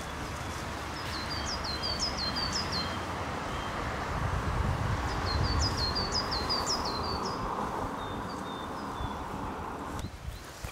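A songbird sings two quick phrases of high, sharply sweeping notes a few seconds apart, with single faint chirps between them, over a steady rushing background.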